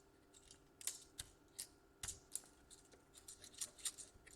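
Light, irregular clicks and ticks of hands handling small parts and insulation tape inside an opened laptop, about a dozen in all.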